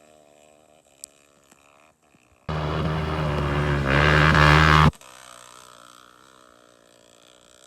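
Off-road motorcycle engine revved hard in neutral for about two and a half seconds, starting and stopping abruptly, with a faint engine idling before and after.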